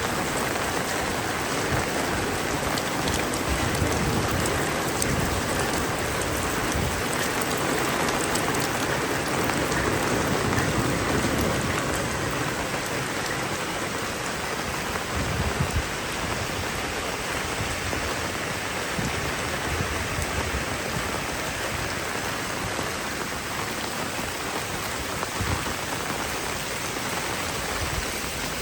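Heavy rain falling and drumming on surfaces, steady and dense, with scattered heavier drips and thuds.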